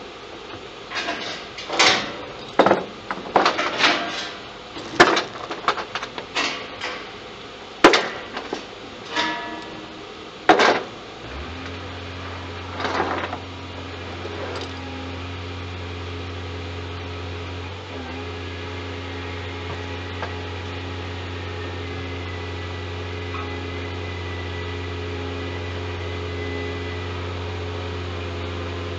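A string of loud metallic clanks and knocks, some of them ringing briefly, for about ten seconds. Then a steady low machine hum starts and runs on evenly.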